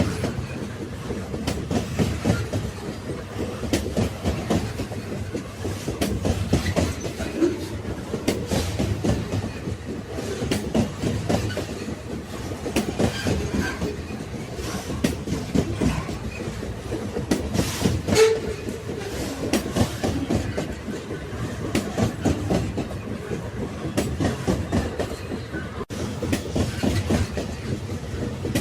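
Railway carriages rolling along the track: a steady low rumble with a continuous clatter of wheels clicking over the rails.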